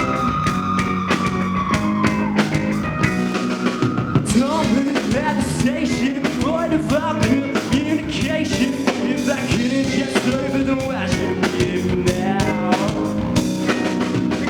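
Live rock band playing a song: a drum kit keeping a steady beat under guitars. A held high note slides down about two seconds in, and a wavering melody line carries on over the band from about four seconds.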